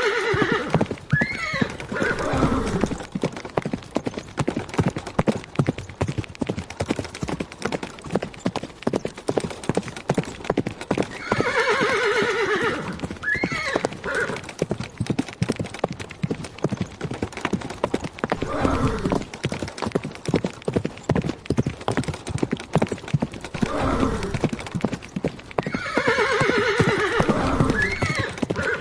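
Horse hooves clip-clopping in a fast, steady rhythm, with a horse whinnying three times at roughly twelve-second intervals.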